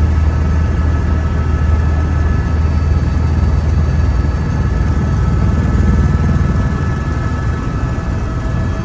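Helicopter in flight, heard from inside the cabin: a steady low drone with constant whining tones above it.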